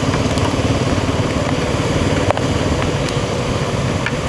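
Royal Enfield Himalayan 450's single-cylinder engine running on the move, under a steady rush of wind and rain noise on the rider's microphone, with a couple of faint ticks.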